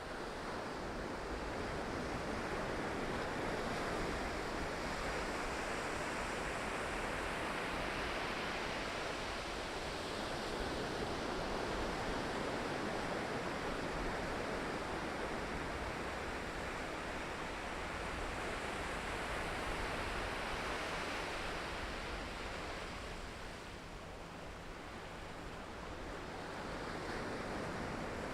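Ocean surf washing ashore in a continuous roar of noise that swells and eases slowly, dropping back about three-quarters of the way through and building again near the end, with some wind on the microphone.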